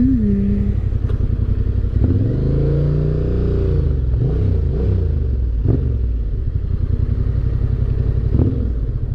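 Yamaha Ténéré 700's parallel-twin engine running on the move, its pitch climbing about two seconds in and then dropping back and shifting as the throttle changes.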